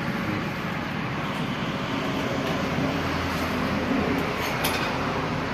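Massey Ferguson tractor's diesel engine running steadily at idle, a fast, even low chugging.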